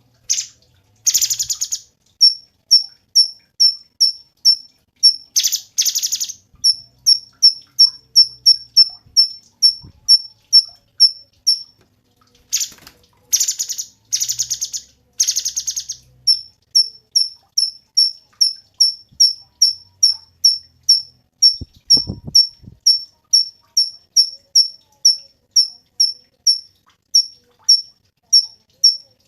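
Cucak cungkok birdsong: a steady run of short high chirps about twice a second, broken several times by fast rattling trills lasting a second or so.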